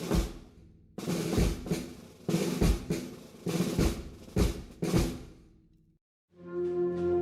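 Procession band percussion: snare drum rolls with heavy bass drum strokes in a slow march rhythm, stopping about six seconds in. After a brief gap, a sustained brass chord enters near the end.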